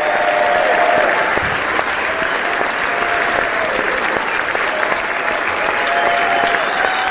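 Crowd applause: many people clapping continuously and steadily, with faint voices mixed into the clapping.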